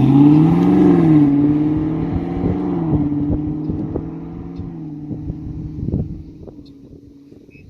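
2019 Camaro SS's 6.2-litre LT1 V8 with its active exhaust in track mode, valves open, as the car cruises away. The engine note rises briefly about a second in, then holds steady while it fades into the distance.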